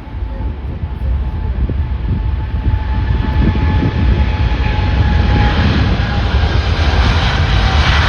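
Jet airliner's engines drawing closer, a deep rumble under a whine that slides slowly down in pitch, getting steadily louder.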